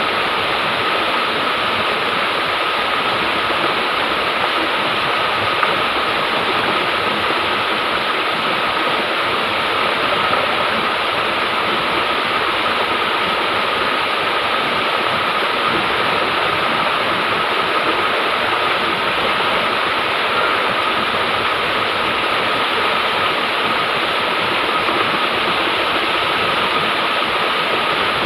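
River water rushing steadily over rocks, a constant loud wash without pauses.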